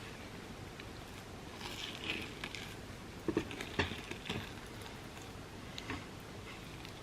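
Close-miked eating of overnight oats with a chocolate and pistachio kataifi topping: soft chewing and mouth clicks, with a cluster of louder sharp sounds around the middle.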